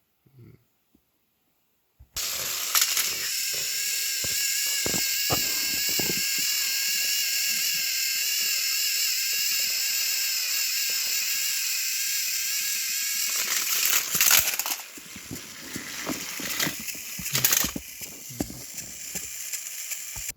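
Battery-powered toy train motors whining steadily through their gears, with scattered clicks and rattles underneath. About two seconds in the whine starts suddenly. Near the end it briefly gets louder, then drops to a quieter, uneven running with more clicking.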